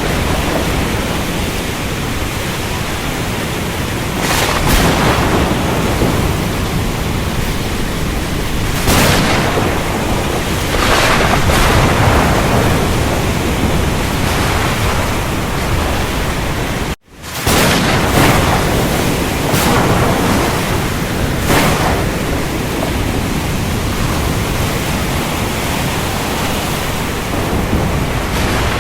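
Steady heavy rain with thunder swelling up several times. A little past halfway the sound drops out to silence for a split second and comes straight back.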